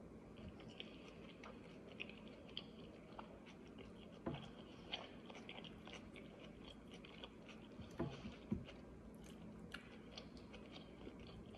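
Faint chewing of a lettuce-topped rice bowl, with soft crunches and a few sharper clicks about four and eight seconds in.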